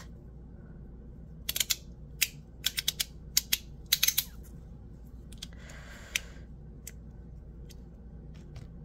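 A quick run of sharp clicks and taps as a titanium fidget slider is handled, with a short soft rustle about six seconds in and a few lighter clicks near the end.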